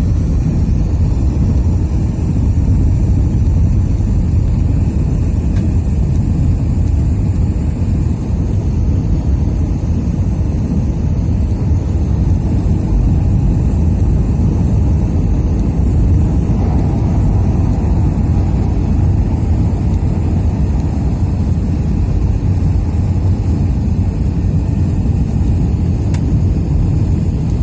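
Jet airliner heard from inside the cabin during takeoff: a loud, steady low rumble of the engines with a faint high whine above it.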